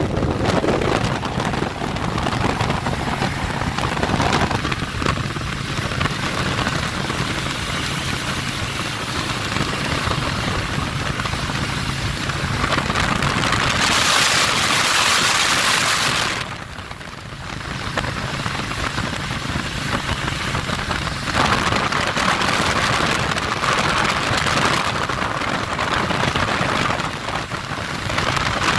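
Steady rushing wind and road noise of a Harley-Davidson Road Glide Special motorcycle on the move. A louder hiss starts about fourteen seconds in and cuts off a couple of seconds later.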